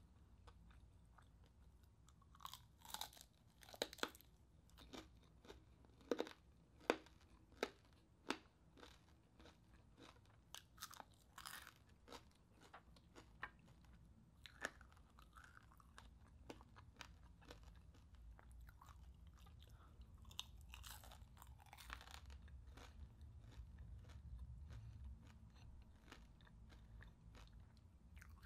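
Crunching and chewing of deep-fried chicharon bulaklak (crispy pork mesentery), heard close up as sharp crackling bites in clusters. They are busiest in the first several seconds, come again around the middle and about three quarters of the way through, and are softer between.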